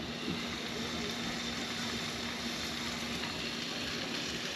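Fish frying in a fry pan on a barbecue, a light steady sizzle while the pan is still coming up to heat. A steady low hum runs underneath.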